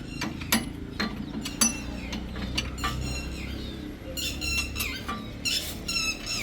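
Irregular metallic clicks and clinks of hand tools working on bolts, over a low steady hum, with a few high squeaky chirps in the second half.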